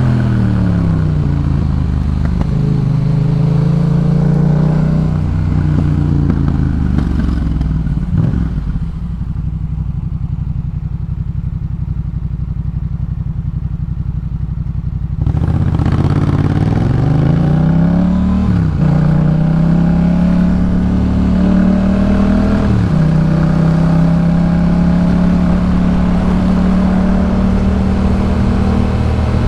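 2018 Yamaha MT-07's parallel-twin engine through a Jeskap K4 full exhaust while riding. Early on the revs fall and the engine runs lower and quieter for several seconds. About halfway it gets louder and the revs climb twice, each time dropping sharply at a gear change, then it holds a steady note.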